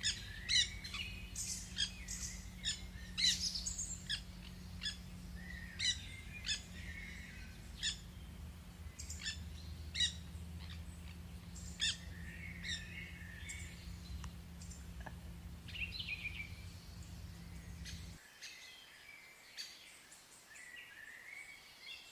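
A flock of wild parrots calling: many short, sharp, high-pitched squawks and chirps, busiest in the first few seconds. A steady low hum sits underneath and cuts off suddenly near the end.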